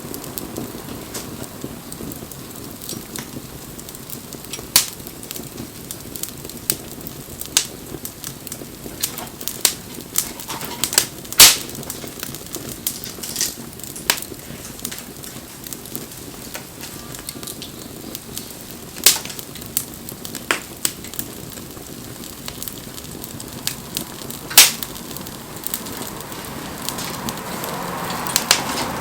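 Wood fire crackling, with scattered sharp pops, a few of them much louder than the rest. A hiss swells near the end.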